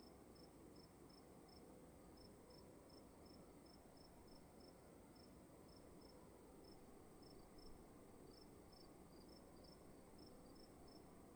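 Faint crickets chirping: a steady run of short high chirps, about three a second, over a continuous higher trill and a low hiss of room tone.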